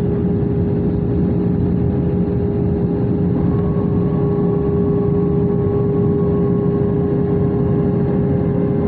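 Airbus A320-214 in flight with CFM56-5B engines running, heard as a steady drone and rush of air carrying a constant whine. A second, higher tone comes in about three and a half seconds in.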